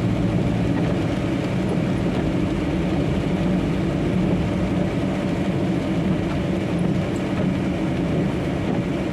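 Semi-trailer truck's diesel engine running steadily at low road speed, heard from inside the cab as an even drone.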